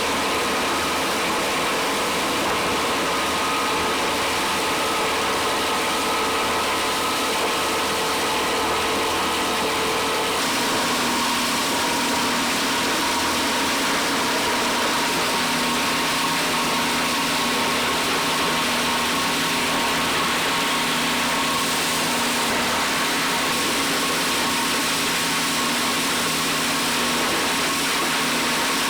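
Factory machinery running steadily: a constant mechanical drone with several steady tones over a dense noise, the tones changing to a different set abruptly about ten seconds in.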